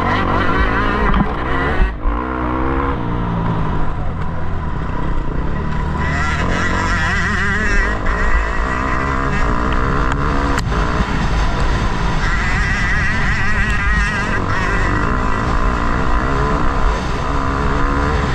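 Motocross motorcycle engine revving hard and continuously, its pitch rising and falling as the throttle is worked through the lap, with a sharp knock about ten seconds in.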